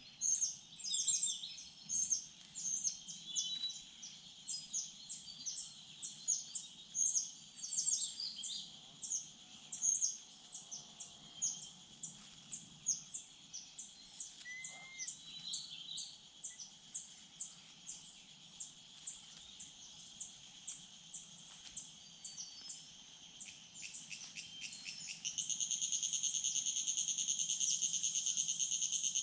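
Small birds in the surrounding forest calling in a long run of short, high chirps, a few a second. About 25 seconds in, an insect starts a steady shrill trill that runs on over them.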